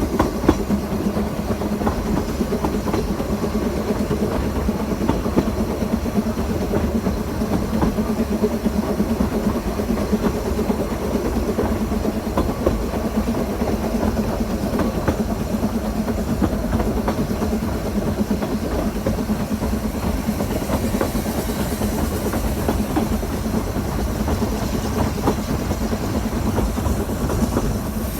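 Narrow-gauge railway train running: a steady rumble with the light clatter of wheels over the rail joints.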